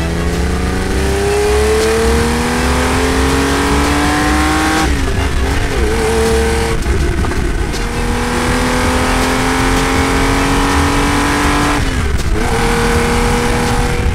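Air-cooled flat-six engine of a Porsche 911 SC in ST race conversion, accelerating hard through the gears. The revs climb steadily, drop at an upshift about five seconds in, climb again and drop at a second upshift near twelve seconds.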